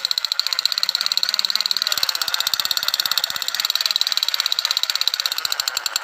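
Battery-powered plastic toy space gun firing, its sound chip playing a fast, steady machine-gun rattle through a small speaker.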